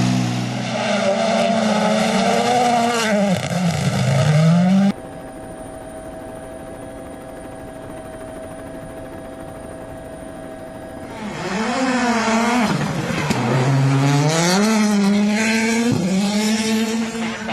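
Rally car engines at full throttle, the pitch climbing and dropping with gear changes. About five seconds in the sound cuts abruptly to a quieter steady hum for several seconds, then another hard run starts, with the revs rising and falling through repeated gear shifts.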